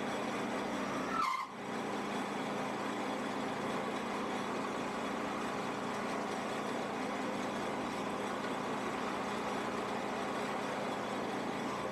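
Shopsmith's motor running steadily with a constant hum, with a brief rising squeal and a sudden dip in level about a second in.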